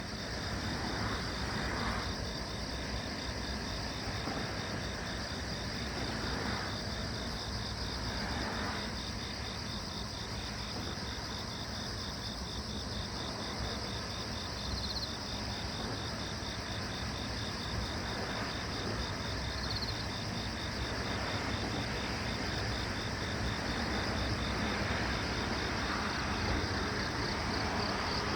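Crickets chirping in a steady, fast, even pulse, over a continuous low background noise.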